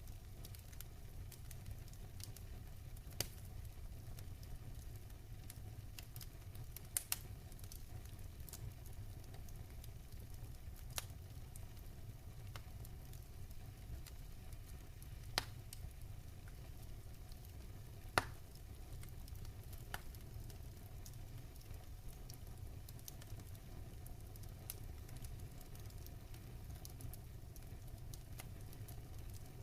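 Wood fire burning in a fireplace: scattered small crackles over a low steady noise, with a few louder pops, the loudest about 18 seconds in.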